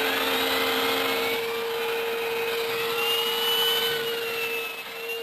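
LG vacuum cleaner with a turbo brush running at full speed: a steady motor hum over rushing air, with a higher whine that drifts slowly up and down in pitch.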